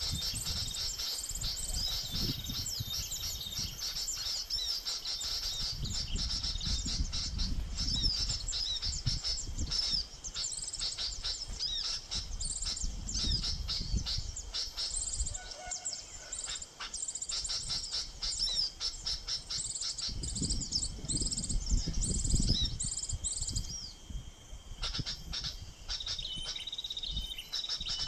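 Small birds, sunbirds and flowerpeckers, chirping and twittering rapidly at a high pitch. Low rumbles on the microphone come and go.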